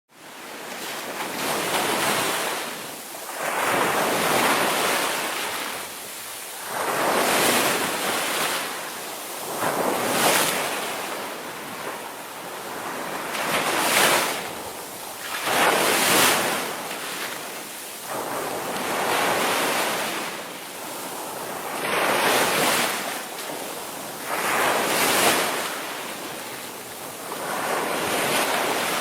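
Indian Ocean waves breaking and washing ashore, the surf rising and falling every two to three seconds.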